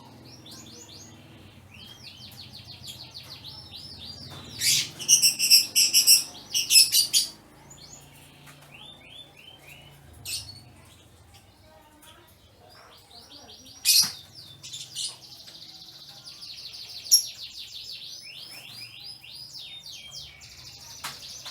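Domestic canaries singing in their cages, with long fast trills of rapidly repeated notes and a louder burst of song a few seconds in. A sharp click comes about two-thirds of the way through.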